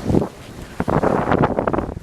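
Wind buffeting the microphone aboard a sailing schooner in uneven gusts, with a burst at the start and a cluster of stronger buffets through the second half.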